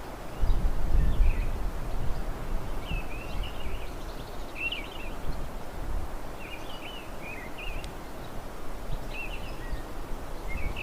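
A songbird giving short chirping calls, a few at a time, every second or two, over a steady low rumble of outdoor noise that swells briefly near the start.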